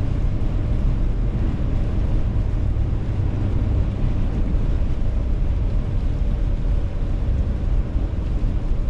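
Steady road and engine noise inside a moving car's cabin: an even low rumble with a hiss above it.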